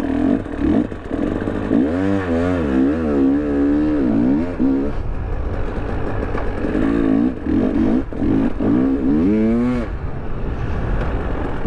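2023 KTM 300 Erzbergrodeo two-stroke dirt bike being ridden off-road, its engine revving up and down over and over with the throttle, choppier near the end.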